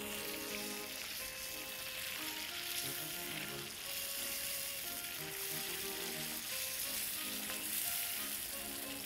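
Potato and tofu curry sizzling steadily in a frying pan of hot oil and a little water while it is stirred with a plastic slotted spoon. Soft background music with short held notes plays underneath.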